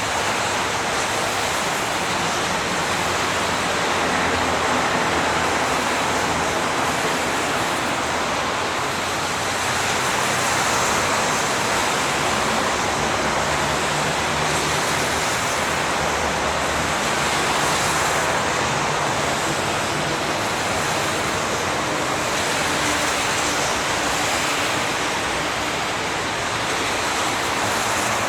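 Steady highway traffic noise: a continuous wash of tyre hiss with a low engine rumble underneath, swelling gently every few seconds as vehicles pass.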